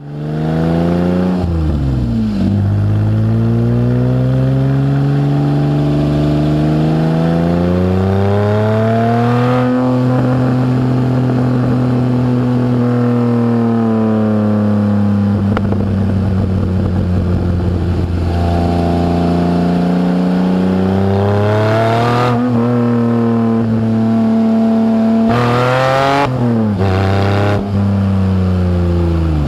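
Toyota 1MZ-FE V6 with a TRD Roots-type supercharger, running hard under acceleration in a mid-engined MR2. The revs climb, drop sharply and hold steady several times as it pulls, shifts and cruises.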